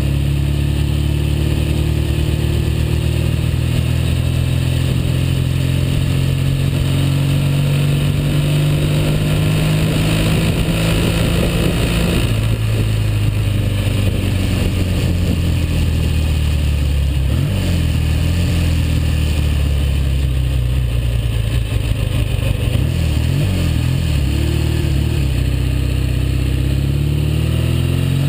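1959 Norton Dominator 600's parallel-twin engine running under load on the road, freshly overhauled. Its pitch climbs steadily, then drops and builds again several times as the gears are changed.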